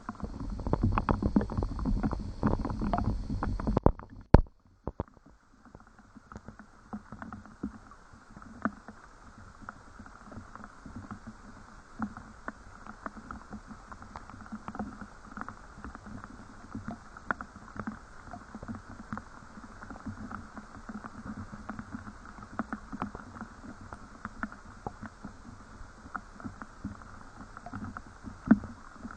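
Rain falling, a steady hiss full of small irregular drop ticks. For the first four seconds a louder, low rumble runs under the drops, then cuts off suddenly with one sharp knock.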